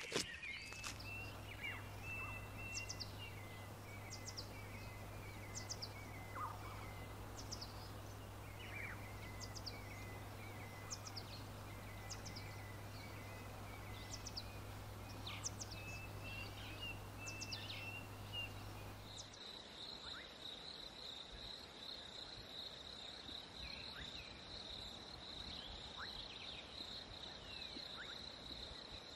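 Natural ambience of birds calling, with repeated short chirps and quick high notes over a soft hiss and a low hum. About two-thirds of the way through it switches abruptly to insects trilling steadily at a high pitch.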